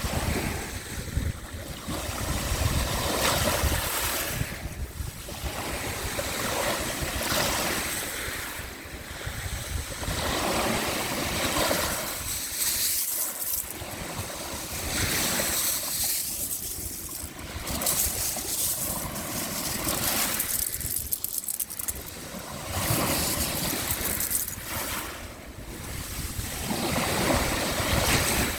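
Sea waves washing onto the shore, the surf surging and easing every few seconds.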